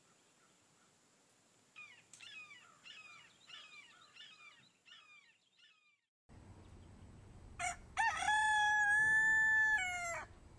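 A rooster crowing once: a long call that holds steady, then drops at the end. Before it, another bird calls in a run of short falling notes, about two a second.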